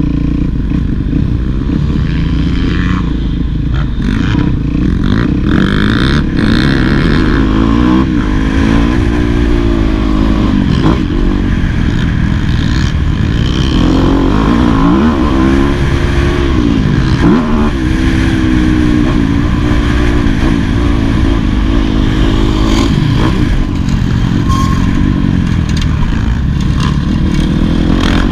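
2018 Yamaha YZ250F four-stroke single-cylinder motocross engine being ridden hard, its pitch climbing and dropping over and over as the throttle is opened and shut, with some clatter.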